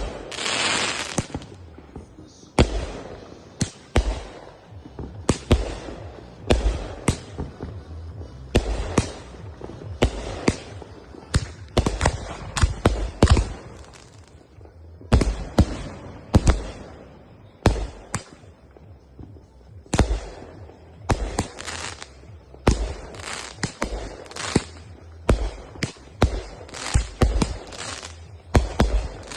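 Consumer fireworks going off: a rapid, irregular string of sharp bangs, some followed by crackle, with a short lull about halfway through.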